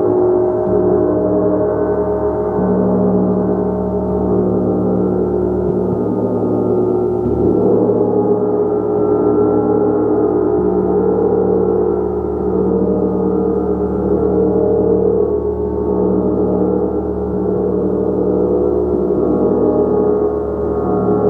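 Gong played continuously in a sustained, swelling wash: many overlapping tones shimmer and shift without a break, kept sounding rather than struck once and left to decay.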